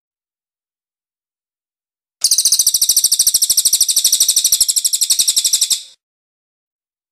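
A cililin (crested jay) giving one fast, high-pitched trill of about ten notes a second. It starts about two seconds in and lasts about three and a half seconds, with silence before and after.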